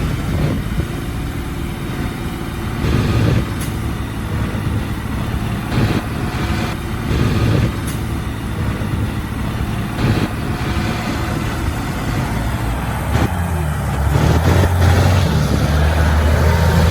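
Heavy diesel engines of construction machinery running, with occasional knocks and clanks. The engine note grows louder and stronger about three-quarters of the way through.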